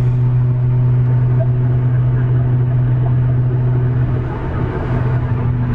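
Car engine and exhaust droning steadily at highway speed, heard from inside the cabin. The note holds one steady pitch, easing briefly a little over four seconds in.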